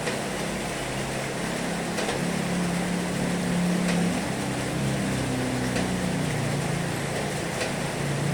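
Heavy rain falling steadily: a dense, even hiss with scattered sharp drop ticks, over a low rumble that swells around the middle.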